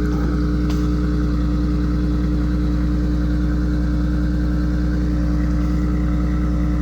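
2025 BMW X3 M50's turbocharged 3.0-litre inline-six idling steadily just after a cold start.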